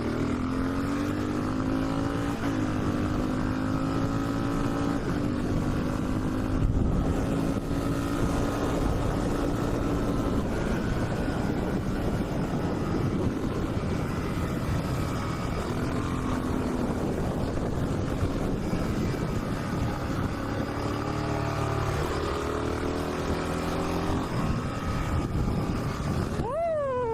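Motorcycle engine running at a steady cruising speed while riding, with wind rush; the engine note drifts slowly, then revs up sharply and drops back near the end.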